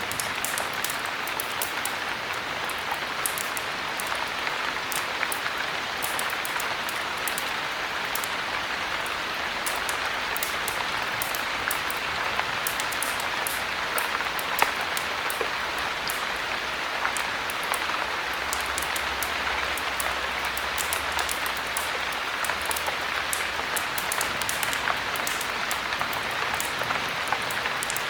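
Steady heavy rain with a wood fire crackling in a fireplace: a dense, even hiss of rain, with many small sharp pops from the fire and one louder pop about halfway through.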